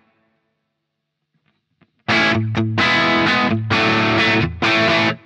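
Electric guitar played through a Crazy Tube Circuits Stardust V3 overdrive pedal into a Marshall JTM45 valve amp, giving a driven tone: after about two seconds of silence, a short riff of distorted chords struck in rhythm, about five hits, the last one ringing briefly and cut off.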